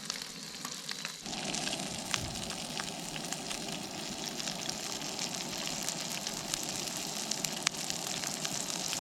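Bison burger patties sizzling and crackling in a frying pan, the sizzle growing fuller about a second in.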